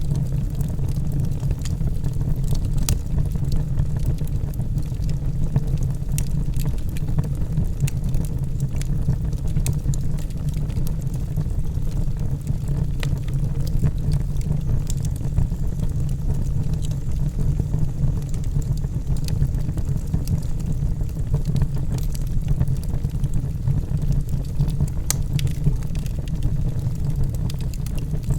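Logs burning in a fireplace: a steady low roar of the flames with scattered sharp crackles and pops at irregular moments.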